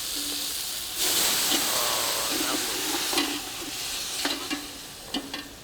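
A pan of garlic, tomato and chili frying, then about a second in a loud surge of sizzling as hot water goes into the hot pan, easing off toward the end. A few sharp clicks of a utensil against the pan in the second half.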